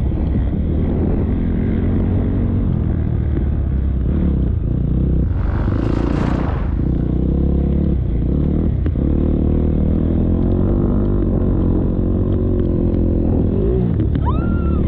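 KTM motocross bike engine running at fairly steady revs, with a brief rush of noise about six seconds in.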